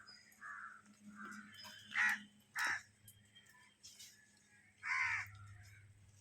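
Birds calling outdoors: a few separate calls, the loudest about two seconds in, again half a second later, and once more about five seconds in, with fainter calls between.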